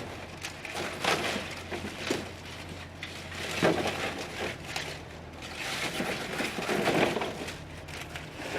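Irregular rustling, crinkling and knocking of things being handled, over a low steady hum that stops near the end.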